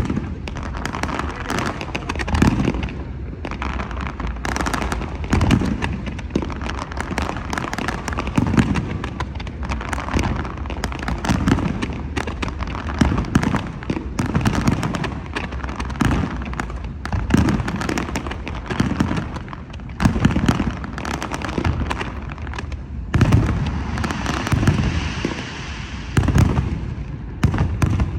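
Aerial fireworks display: a dense, continuous rattle of sharp cracks, with deep shell bursts booming every second or two. A fizzing crackle swells near the end.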